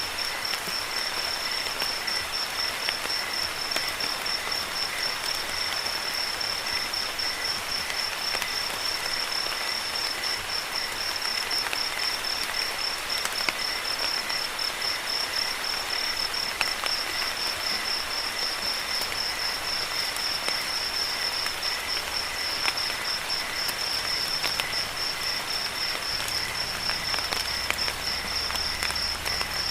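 Steady rain with scattered drops ticking, under crickets chirping in a continuous, rapidly pulsing high trill. A faint low rumble comes in near the end.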